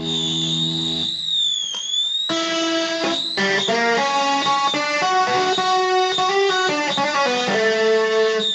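Electric guitar playing a held chord for about two seconds, then a run of single lead notes.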